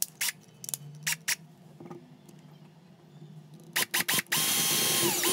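Several sharp clicks and taps of tools and parts being handled, then a small handheld power tool's motor runs for about a second with a steady whine that drops in pitch as it stops.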